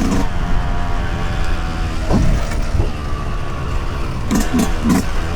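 Yamaha YZ125 two-stroke single-cylinder dirt bike engine running while ridden, with a quick blip of the throttle about two seconds in and a few more short blips near the end.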